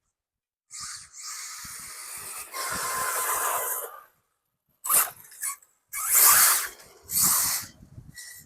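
Thunder Tiger EB4 brushless RC car driven hard on a 4S battery: bursts of motor and tyre noise as it accelerates, a long run about a second in, then several shorter bursts.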